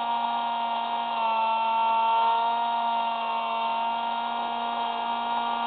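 Electric motor and propeller of a Hubsan Spy Hawk RC airplane running at steady throttle: a steady whine that holds one pitch.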